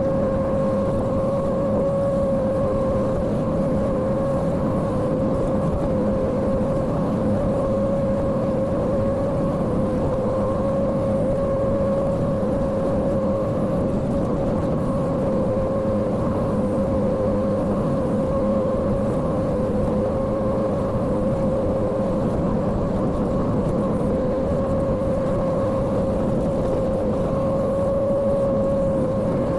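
Small engine of a compact construction machine (mini excavator or ride-on dump hauler) running steadily at constant speed, with a steady whine over a low rumble.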